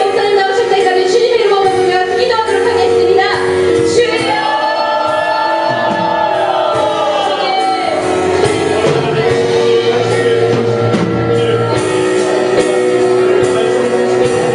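Live worship music: singing over a band.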